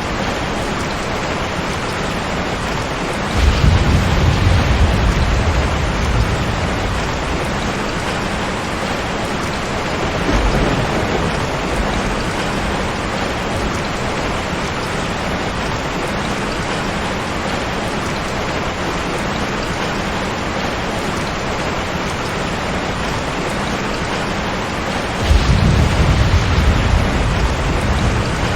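Steady rain with rolling thunder: a long low rumble about three seconds in, a shorter one around ten seconds, and another near the end.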